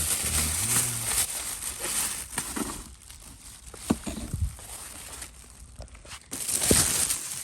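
Plastic packaging crinkling and rustling as it is handled and pulled off, louder at the start and again near the end, with a couple of short knocks in between.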